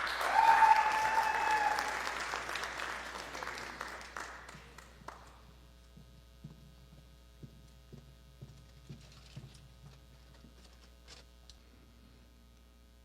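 Audience applauding and cheering, with a high whoop near the start, dying away after about five seconds. Then the room is hushed, with a few faint knocks and shuffles.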